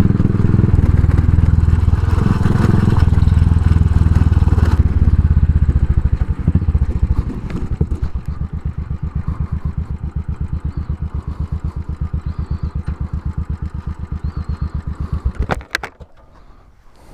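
Royal Enfield single-cylinder motorcycle engine running loud under way, then easing off to an even idle thump, which stops abruptly near the end.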